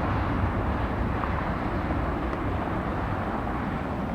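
Jet noise from a CRJ-900 regional jet's twin rear-mounted turbofans as it climbs away after takeoff: a steady rumble that slowly fades.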